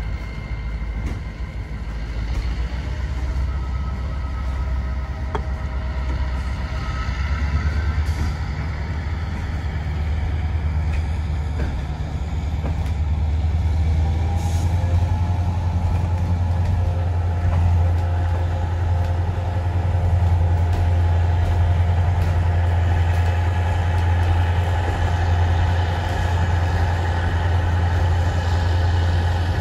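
Diesel-hauled passenger train running along the track, heard from aboard: a steady low rumble that grows somewhat louder toward the end.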